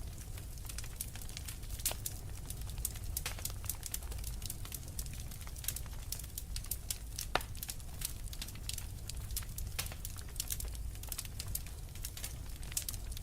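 Wood fire burning in a fireplace: logs crackling and popping with many small sharp snaps over a steady low rumble of the flames.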